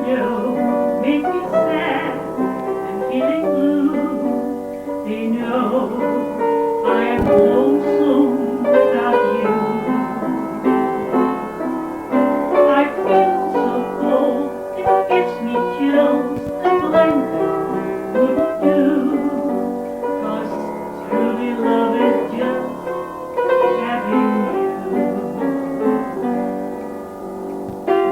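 Piano playing a slow song accompaniment, sustained chords and melody notes.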